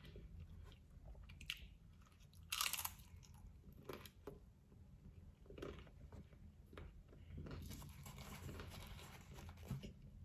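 A person chewing and biting into a taco close to the microphone: quiet, wet chewing with scattered crunches, the loudest about two and a half seconds in.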